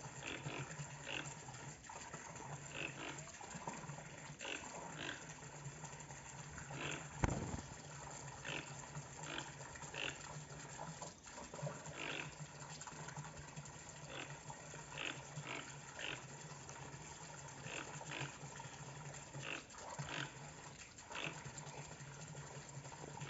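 Toucans calling: short calls repeated in runs, about one or two a second, over a steady low hum, with a single thump about seven seconds in.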